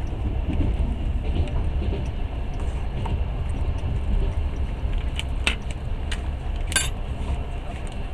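Passenger train running along the track, its wheels on the rails giving a steady low rumble, heard from inside the carriage. A few sharp clicks and a short high squeak come about five to seven seconds in.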